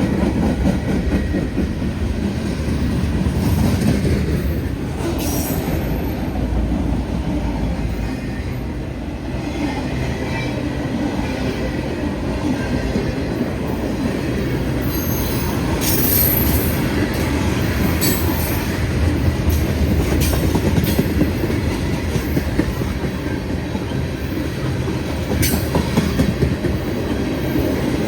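CSX freight train rolling past: a continuous rumble of wheels and cars on the rails, with a few brief high-pitched wheel squeals.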